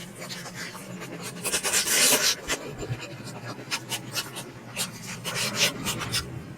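Close-up eating sounds of someone chewing momos: a string of wet mouth clicks and smacks, with a louder, longer noisy stretch about two seconds in.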